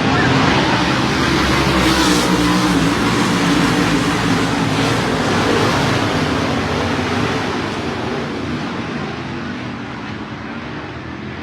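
A pack of dirt modified race cars at full throttle just after the green flag, their V8 engines running loud together with tyre and dirt noise. The sound eases off gradually over the last few seconds as the pack moves away.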